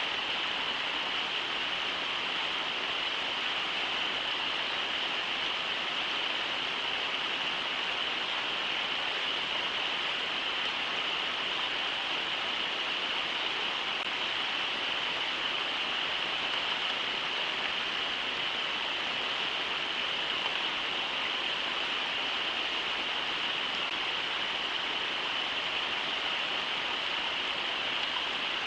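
Brooks River water rushing steadily over shallow riffles, an unbroken even hiss.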